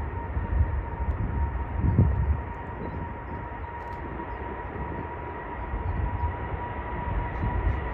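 Jet airliner engines running with a steady high whine over a low, uneven rumble.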